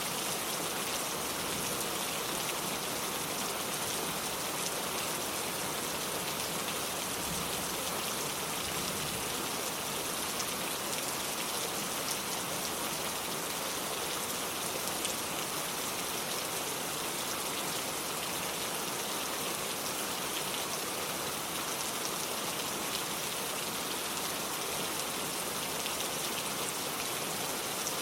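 Steady rain falling: an even, unchanging hiss with fine scattered ticks of individual drops.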